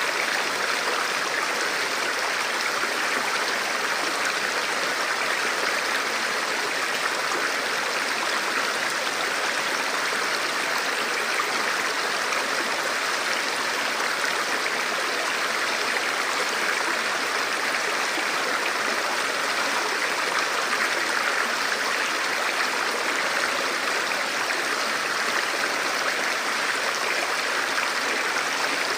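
A river or forest stream rushing steadily over rocks, a continuous even flow of water with no breaks.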